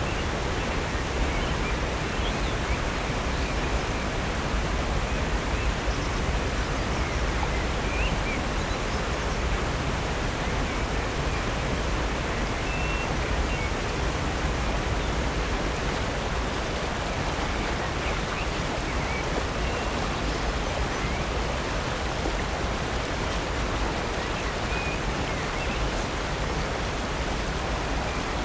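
Steady rush of water from a waterfall and creek, Upper North Falls pouring into Silver Creek, with a few faint bird chirps over it.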